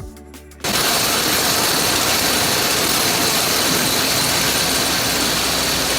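Electronic music for the first half second, then a sudden cut to loud, steady noise of sawmill machinery running, with a faint high whine over it.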